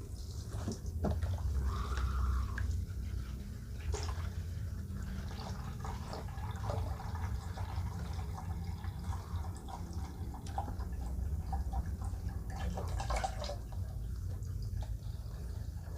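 Water and chemical cleaning solution dripping and splashing in a container while it is being mixed, with scattered small knocks, over a steady low hum.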